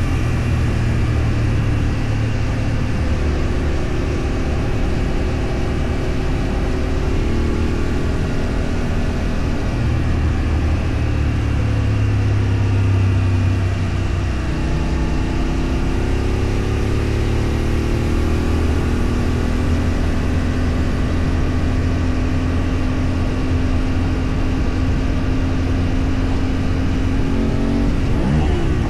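A vehicle's engine running steadily while under way, over a constant rush of road and wind noise. The engine note sags about halfway through, climbs back, and sweeps briefly near the end.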